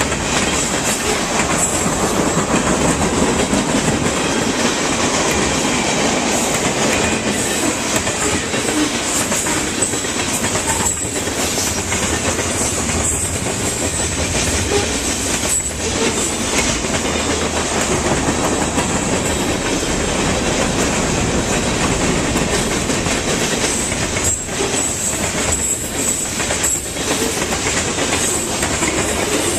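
A train rolling past close by: a steady, loud rumble of wheels on the rails with clickety-clack over the rail joints.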